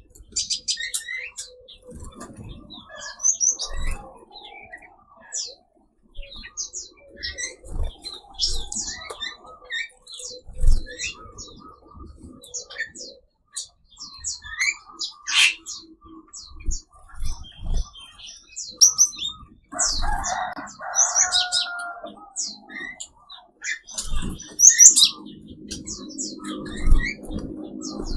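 Many small cage birds of mixed species chirping and calling over one another in a busy aviary, with quick high chirps and whistles throughout and occasional low thumps.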